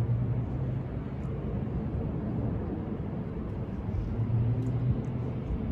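Steady low rumble of a passing train, with a low hum that swells and fades.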